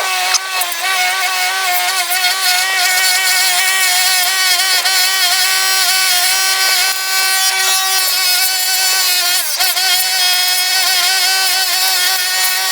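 Power tool running at a steady high-pitched whine while cleaning rust off a vintage F wrench, dipping briefly in pitch now and then as it is pressed against the metal.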